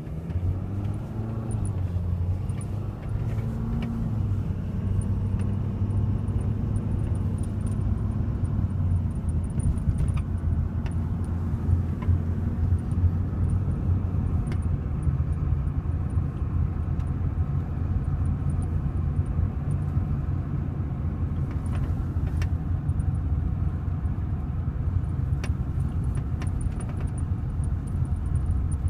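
A Ford 6.7 L Power Stroke V8 diesel running with a steady low drone, rising in pitch over the first few seconds. A few sharp clicks and faint, intermittent high-pitched chirps sound over it.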